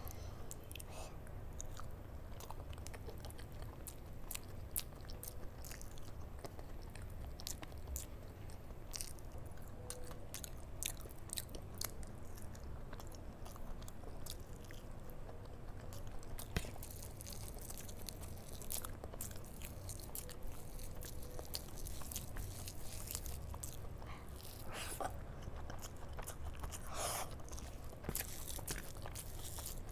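Close-up chewing and biting of rice and curry eaten by hand, with many short sharp mouth and finger clicks throughout and a steady low hum underneath.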